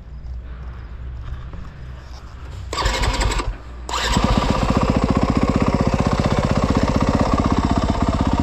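Yamaha YZ250F dirt bike's single-cylinder four-stroke engine starting: it catches for about a second around three seconds in and drops away, then fires about four seconds in and runs loud and steady with a fast, even pulse.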